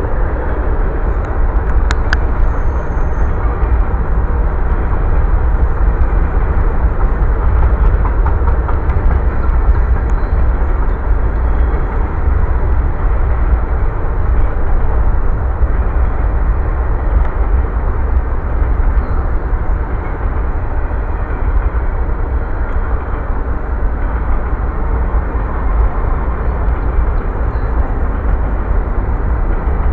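Freight train cars rolling past, a steady heavy rumble of wheels on rail, with one sharp click about two seconds in.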